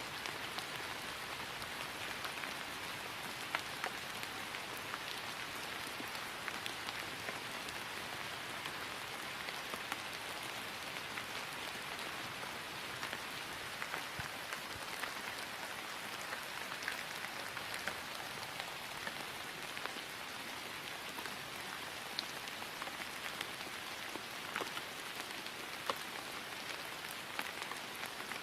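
Steady rain falling on grass: an even hiss with scattered individual drops ticking sharply through it.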